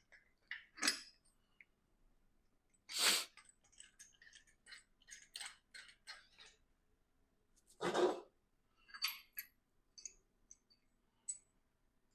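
Scattered light metallic clinks and clicks of hand tools and engine parts being handled, with two louder brief scraping knocks about three and eight seconds in.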